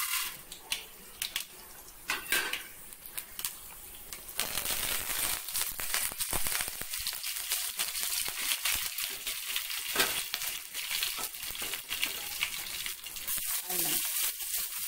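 Tempering frying in hot oil in a pan: mustard seeds and chana dal, then curry leaves, chopped garlic and green chillies, sizzling and crackling. Sparse crackles at first, then a dense, steady sizzle with many pops from about four and a half seconds in.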